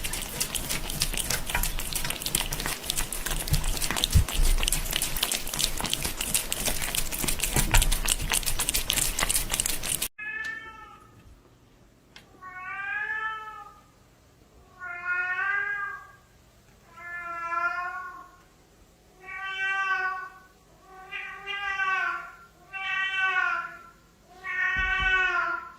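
A dense, steady hiss full of crackles that cuts off abruptly about ten seconds in. Then a cat meows over and over: about eight long, wavering meows, roughly two seconds apart.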